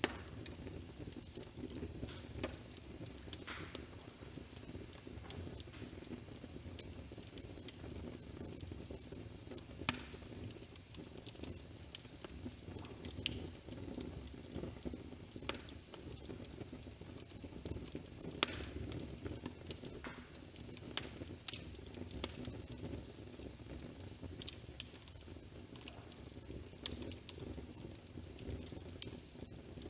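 Wood fire crackling in a fireplace: a steady low rumble with irregular sharp pops throughout.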